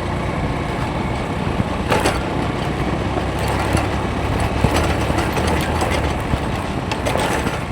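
A motor vehicle's engine runs steadily with a low hum, with a few short knocks and rattles here and there.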